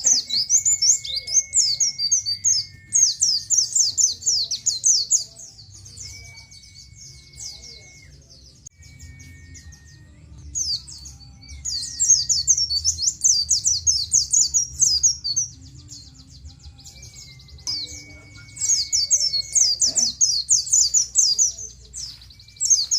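A pleci (white-eye) singing its rapid, high 'ciet ciet' chirping song in several fast bursts separated by pauses of a second or two. Faint long, thin whistled notes sound lower down between and under the bursts.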